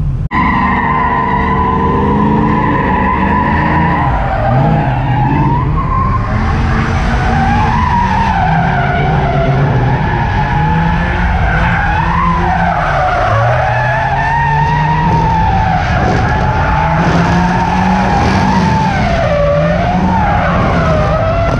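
A car drifting: long continuous tyre squeal whose pitch wavers up and down, over an engine held at high revs that rises and falls with the throttle.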